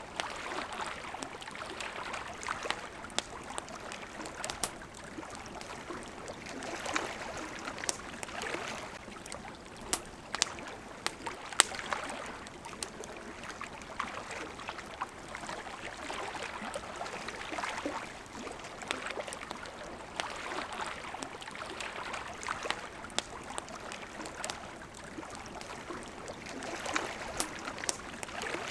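Campfire crackling with scattered sharp pops, one louder pop about midway, over small waves lapping at the water's edge in slow swells every few seconds.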